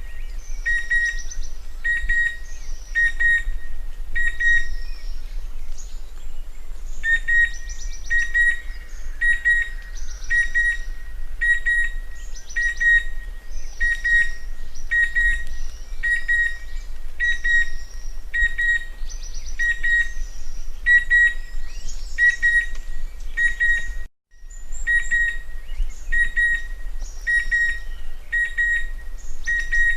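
Chestnut-winged cuckoo calling: a long series of short whistled notes repeated about twice a second, with other birds' fainter, higher calls behind it. The sound cuts out for a moment near the end.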